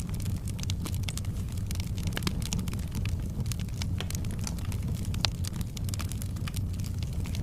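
Fireplace fire crackling: many small irregular pops and snaps over a steady low rumble of the flames, with one sharper pop about five seconds in.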